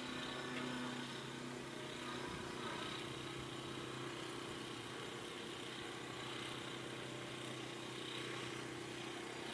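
Engine of a radio-controlled model airplane running at a steady pitch.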